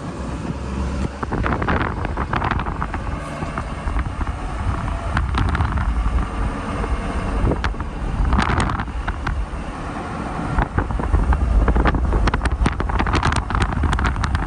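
Car driving along a road: steady low engine and tyre rumble with wind noise on the microphone, and scattered short knocks and clicks that come thicker near the end.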